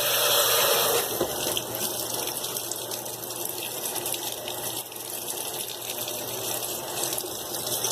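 Brastemp BWQ24 top-load washing machine filling: water rushing in through the soap-dispenser inlet valve into the tub, a steady gush that eases slightly about a second in.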